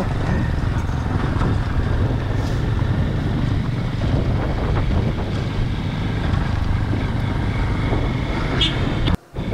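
Honda CB190R motorcycle's single-cylinder engine running steadily under way, with wind noise on the microphone. The sound cuts out for a moment near the end.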